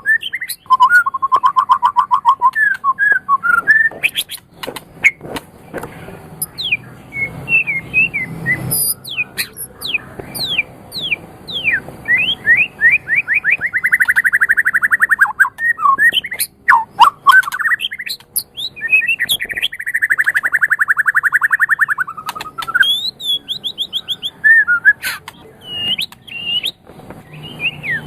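White-rumped shama singing a long, varied song of quick up-and-down whistled notes, sharp clicks and rapid rattling trills, two of the trills running for a couple of seconds each in the middle.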